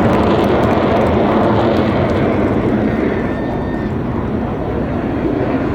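Loud, steady jet noise from Northrop F-5E Tiger II fighters' turbojets in flight, the higher hiss fading slightly after about two seconds.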